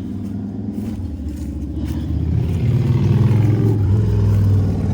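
Motor vehicle engine running with a steady low hum that grows louder about two seconds in.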